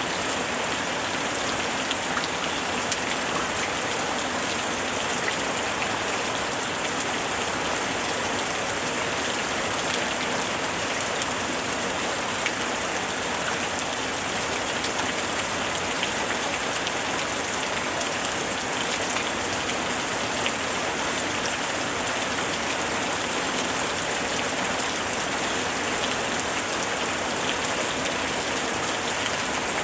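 Steady rain falling, an even hiss with scattered sharp ticks of single drops striking.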